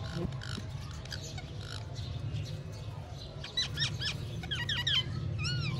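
Pet parrot calling: a quick run of short, sliding chirps starting about three and a half seconds in, over a steady low hum.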